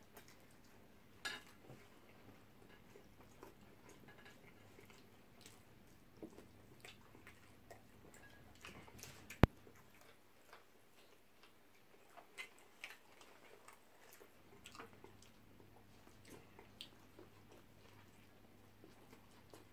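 Faint chewing and small clicks of people eating shawarma wraps, with one sharp click about halfway through.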